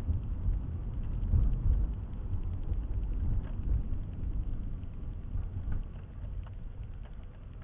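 Low rumble of a car driving, heard from inside the cabin through a dash camera's microphone, easing off toward the end.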